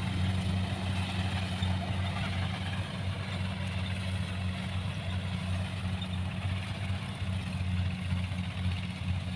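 Rice combine harvester's diesel engine running at a steady speed, a constant low drone.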